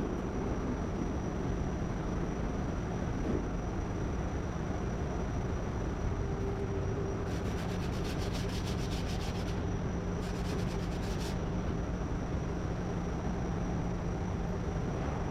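Body filler being sanded on a car's lower quarter panel: a steady rubbing with a constant machine hum, and two short spells of rapid fine ticking midway.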